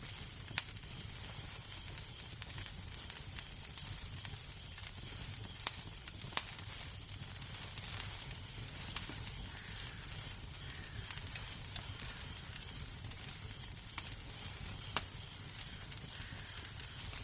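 Wood fire crackling in a fireplace: a steady hiss with a low rumble underneath and sharp, scattered pops, the clearest about half a second in, around the middle, and twice near the end.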